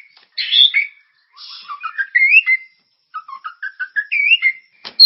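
Recorded songbird song from a masteran training track for white-rumped shamas: varied whistled and warbled phrases that glide up and down, separated by short pauses, with a sharp click near the end.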